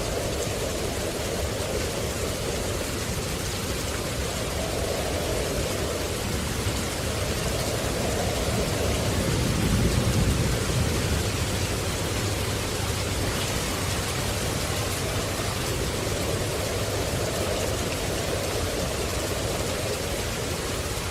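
Steady rain, an even hiss with no pauses, with a low rumble that swells and fades about halfway through.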